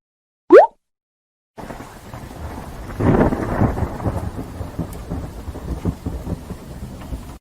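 Thunderstorm sound effect: rain hiss with a rumble of thunder that swells loudest about three seconds in and rolls on. Before it, about half a second in, a short rising blip.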